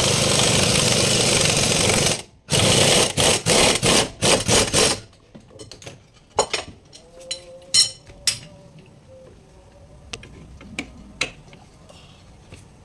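Impact wrench running in a long burst, then in several short bursts, loosening bolts during gearbox removal. After that come scattered metallic clicks and clinks of hand tools.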